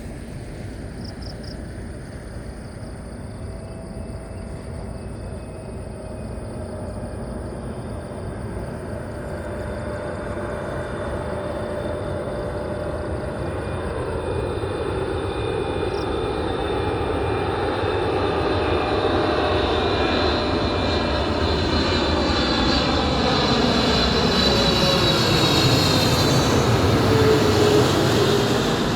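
Boeing 777 jet airliner on its landing approach, the engine noise swelling steadily louder as it comes overhead, then its tones falling in pitch as it passes near the end.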